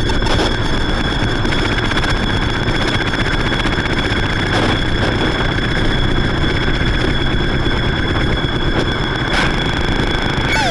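Harsh noise music from electronic gear and effects pedals: a dense, steady wall of noise with high held tones running through it, broken by a couple of brief crackles.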